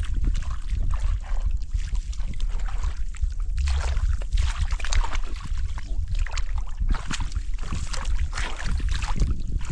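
Water splashing and sloshing in irregular bursts over a steady low rumble of wind on the microphone.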